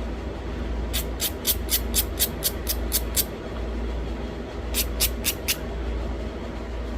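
Sharp stone clicks as small flakes snap off a thin chert-type flake being knapped into a tiny bird point: a quick run of about ten clicks over two seconds, then four more near the end.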